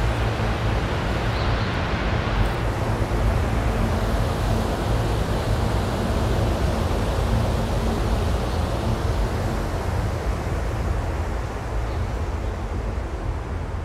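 SEPTA Regional Rail electric commuter train moving out along the platform track: a steady rumble of wheels on rail with a low hum, easing off slightly near the end as the train draws away.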